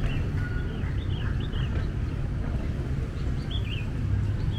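Small birds chirping in short, quick groups of notes over a steady low rumble of street traffic.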